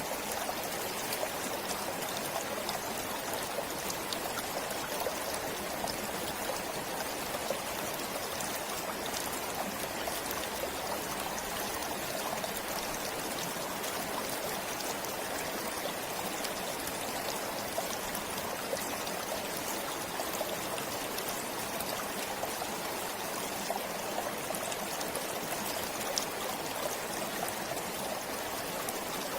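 A forest stream flowing steadily, water trickling and splashing over stones with small sharp droplet sounds.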